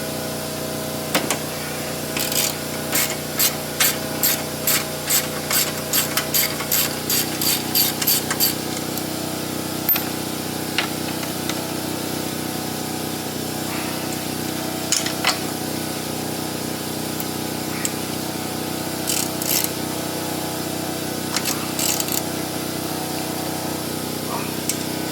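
Ratchet wrench clicking in a regular run of strokes, about two or three a second for several seconds, then a few single clicks, over a steady mechanical hum.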